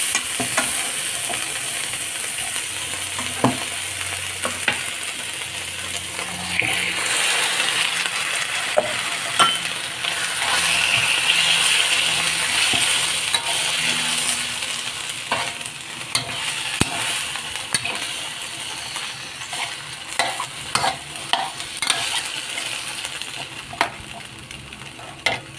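Raw chicken pieces sizzling as they fry with chopped onion in a hot wok, turned with a spatula that clicks and scrapes against the pan. The sizzle swells from about a quarter of the way in and eases off in the second half.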